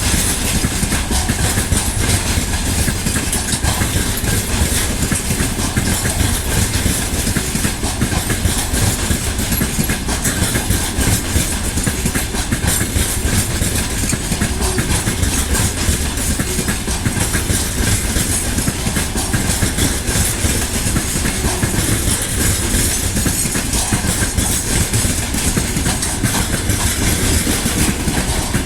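Freight train hauled by a 2EL5 electric locomotive, running with a steady, even rumble and rail noise.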